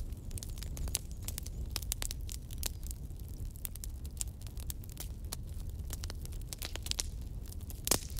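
Fire crackling: irregular sharp pops and snaps over a steady low rumble, with one louder pop near the end.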